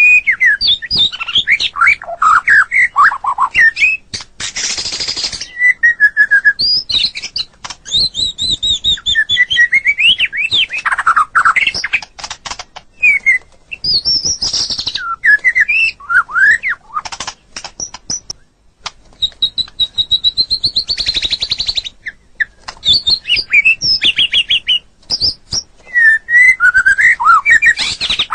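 White-rumped shama (murai batu) singing a long, varied song of clear whistled phrases, trills and rising and falling glides. The song is broken several times by short harsh, rasping notes.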